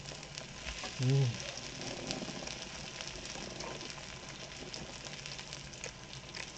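Pork belly (samgyeopsal) sizzling steadily in its own fat on a hot pan, with fine crackles throughout. A brief voiced hum cuts in about a second in.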